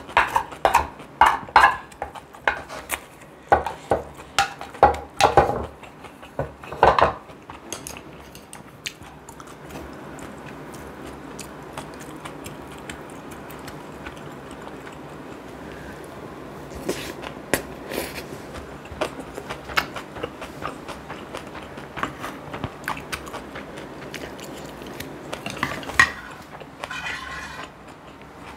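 Close-miked eating: chewing with utensils clicking against dishes. The clicks come thick and fast for the first several seconds, then thin out to occasional light chewing and clinks over a steady hiss, with one sharper clink near the end.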